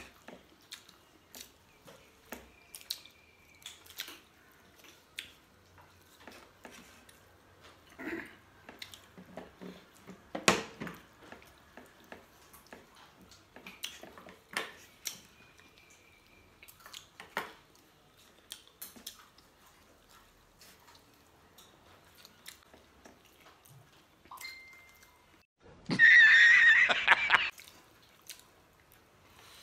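Eating sounds: soft smacks, clicks and chewing of two people eating roti and butter chicken by hand. Near the end comes one loud sound lasting about a second and a half.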